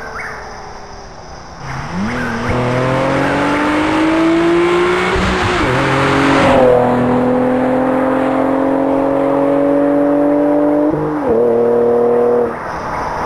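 Infiniti G35 Coupe's V6 breathing through a Fast Intentions Intimidator exhaust, accelerating hard through the gears: the exhaust note climbs in pitch, dips at two upshifts about halfway and about four-fifths of the way through, then the throttle lifts near the end.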